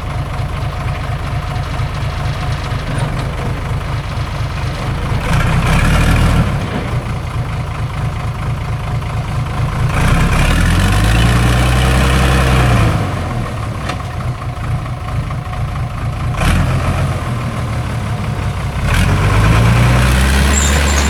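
Heavy logging truck's engine running at a low rumble, revved up and back down twice: once about halfway through and again near the end, with a shorter swell before.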